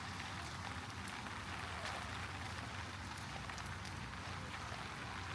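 Steady heavy rain falling on the street, an even hiss, with a low city rumble underneath.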